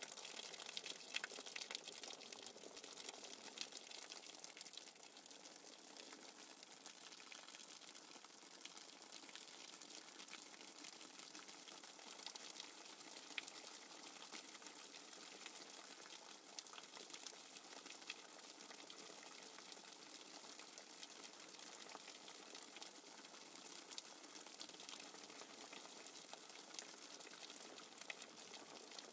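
Steady rain falling, with water streaming off a roof edge. It makes a soft, even wash with scattered ticks of single drops.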